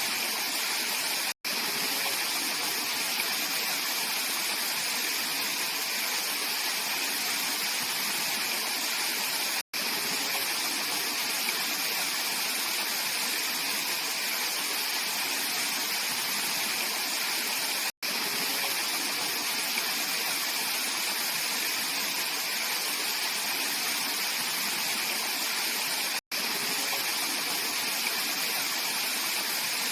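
Clear mountain stream rushing and splashing over rocks, a steady bright hiss of flowing water with little low rumble. The sound drops out for a split second about every eight seconds.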